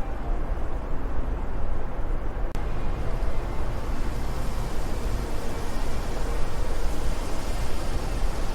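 Steady wind noise, a low rush with no distinct gusts. About two and a half seconds in there is a faint click, after which the hiss grows brighter.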